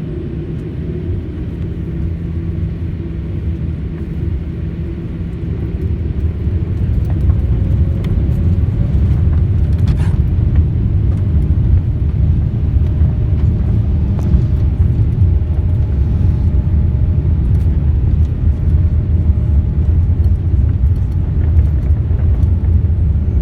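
Jet airliner cabin during the takeoff roll: the engines come up to power and a low rumble swells over a few seconds, then holds loud and steady, with small rattles and clicks from the cabin.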